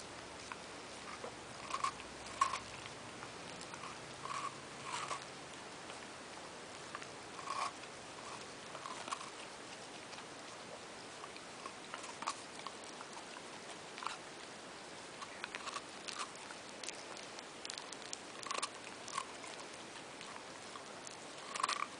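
Scottish terrier chewing and biting an ice lolly: small, irregular crunches and wet clicks, some in quick clusters, with short pauses between.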